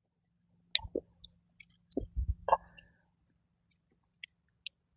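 A handful of light clicks and knocks from a hammock suspension strap and its hardware being handled around a tree trunk, mostly in the first three seconds, with two faint ticks near the end.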